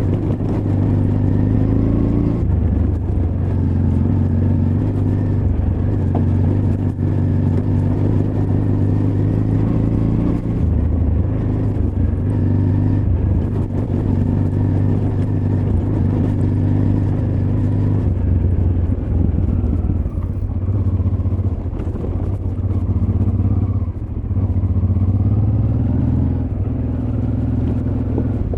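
Honda Transalp XL600V's V-twin engine running under way off-road, its note rising and falling with the throttle and dipping briefly a few times. There are occasional knocks over the engine sound.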